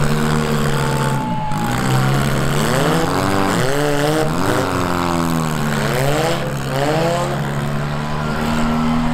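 Several demolition derby car engines running hard, with pitch rising and falling repeatedly as the cars rev, spin their wheels and push against each other, over a steady engine drone.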